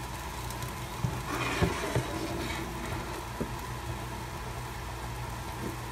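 Food frying in an electric skillet, sizzling softly over a steady low hum, with a few light knocks about one to two seconds in.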